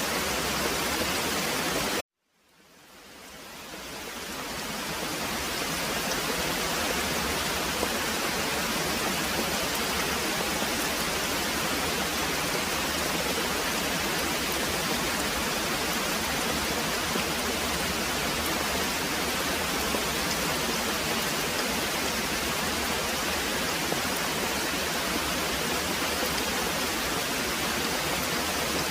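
Very heavy rain pouring steadily as an even hiss. About two seconds in it cuts out abruptly to silence, then fades back in over the next few seconds.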